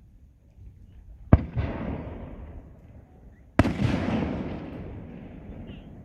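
Two aerial fireworks shells bursting about two seconds apart. Each is a sharp bang followed by a long rumble that slowly dies away, and the second is the louder.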